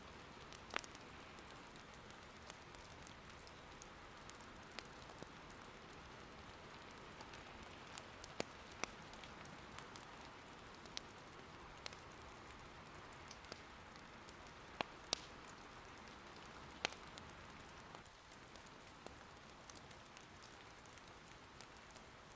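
Soft, steady patter of rain, with scattered sharp pops and crackles from firewood burning in an irori hearth.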